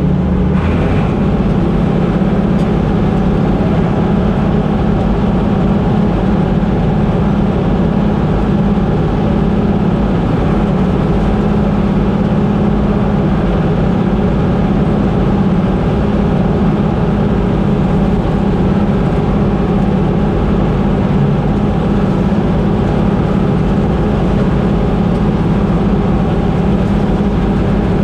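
Combine harvester running steadily under load, its engine and machinery giving an unbroken, even drone.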